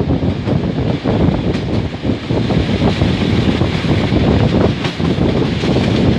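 TLK Warta passenger train running, heard from a carriage window, with heavy wind noise buffeting the microphone.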